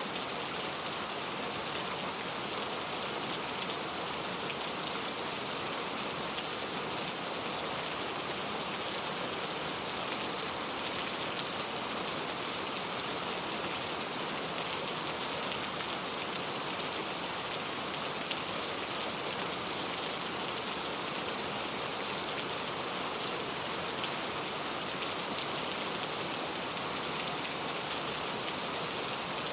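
Steady rain falling on a surface, an even hiss of many fine drops that stays level throughout.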